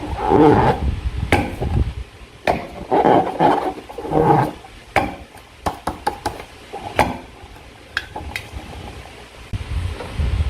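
Slime being worked by hand, with squelching stretches and many short sharp clicks and snaps in between.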